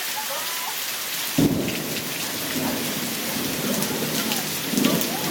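Steady hiss of heavy rain, with a clap of thunder about a second and a half in that rolls on as a low rumble and swells again near the end.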